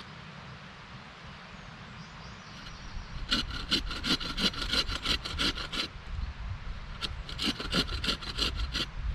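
Hand saw cutting a wooden stick in quick, even strokes, about five a second. Sawing starts about three seconds in and comes in two runs with a short pause between.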